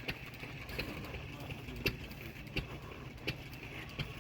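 Steady low engine hum under outdoor background noise, with sharp ticks about every two-thirds of a second.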